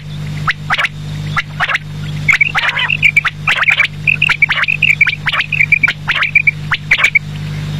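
Quail calling: a series of short, sharp notes, then from about two seconds in a fast run of quick chirps that stops near the end.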